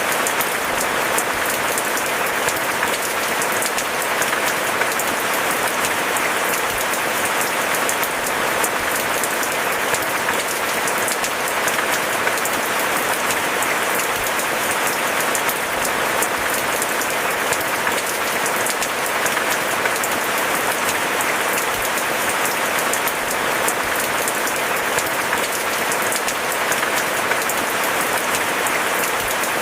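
Steady rainfall: a dense, even patter of many small drops that does not let up.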